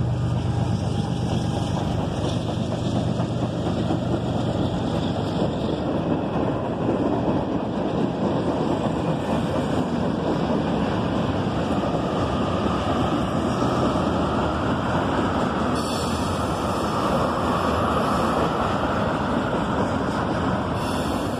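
Freight cars of a long CSX freight train rolling past, a steady rumble of steel wheels on the rails. The low drone of the mid-train diesel locomotive that has just passed fades over the first few seconds.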